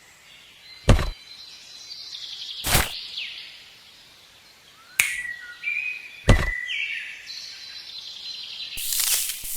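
Birds chirping, with three sharp knocks: about a second in, near three seconds, and just past six seconds. A rustling, scuffing noise builds near the end.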